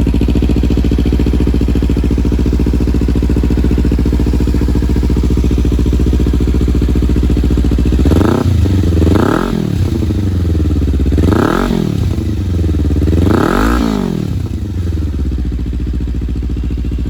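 Kawasaki Ninja 300's parallel-twin engine idling steadily through an aftermarket exhaust with its dB killer fitted. About eight seconds in it is revved four times, each rev rising and falling back to idle.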